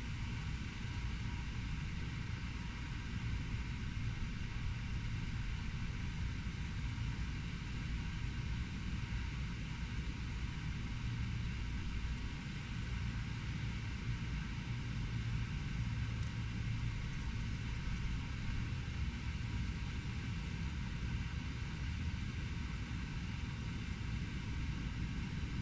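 Steady low rumble of distant city traffic, with an even hiss above it and no distinct events.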